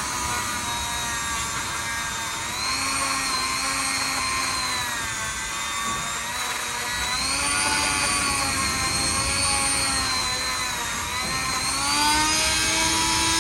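A small power tool spinning a thin stainless steel wire brush, scrubbing rust and oxidation from inside a motorcycle brake caliper. The motor's whine sags in pitch several times as the brush is pressed into the metal and slows, then picks up again as it is eased off.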